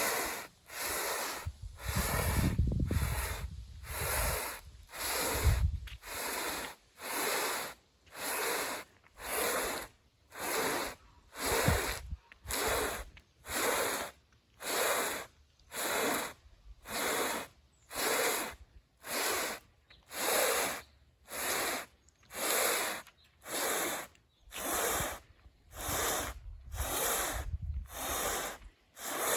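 Heavy, rhythmic breathing of a person straining to drag a loaded sandbag uphill, a breath just under once a second, with bouts of low rumble near the start and near the end.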